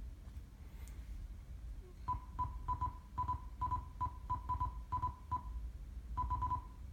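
A run of short, same-pitched electronic beeps, about a dozen in quick pairs and triples starting about two seconds in: the key-press beeps of an Android car head unit's touchscreen as it is tapped.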